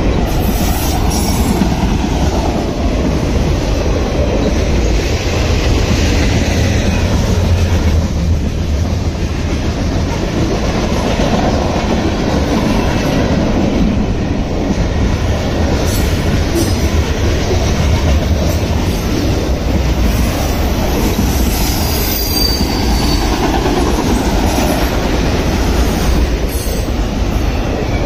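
Freight train cars rolling past close by: a steady rumble of steel wheels on the rails, with a short, high wheel squeal a little after twenty seconds in.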